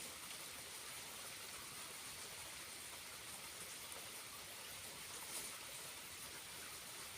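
Water from a small waterfall falling and splashing steadily.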